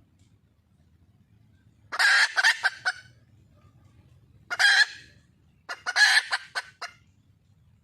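A wild junglefowl hen calling for a male: three harsh calls, about two, four and a half and six seconds in, each under a second or so long.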